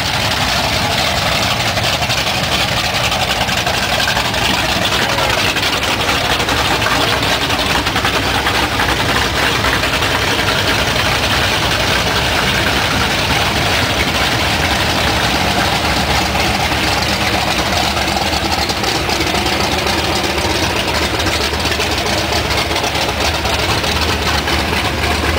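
Lifted 4x4 mud trucks' engines running, a steady, loud, continuous engine noise.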